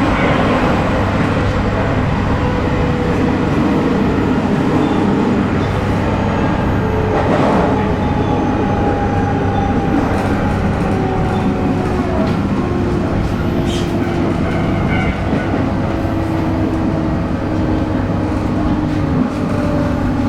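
Running sound of a 719 series 5000-subseries electric train at speed: MT61 traction motors whining under thyristor phase control over steady wheel-on-rail noise. A steady low hum runs under it, and the motor whine drifts slowly lower in pitch, with a couple of brief clicks along the way.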